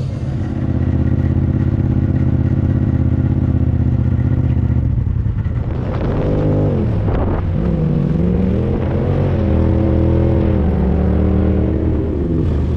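A vehicle engine running at a steady pitch, then from about halfway revving up and down repeatedly as the throttle and load change.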